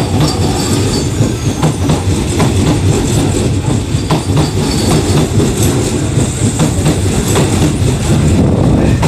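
Kintetsu 22000-series and 22600-series electric train sets running past close to the platform: a steady low rumble with repeated clacks of the wheels over rail joints.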